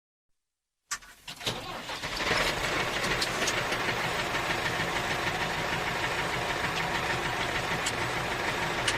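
Engine-like running sound of a mini tractor: it starts about a second in after dead silence, builds up and settles into a steady drone.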